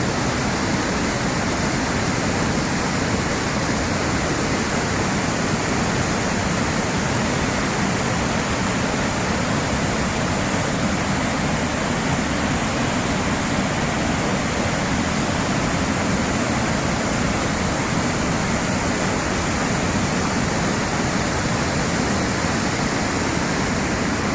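Steady rushing of whitewater pouring over Dillon Falls, heard close up at the river's edge, an even unbroken noise that does not let up.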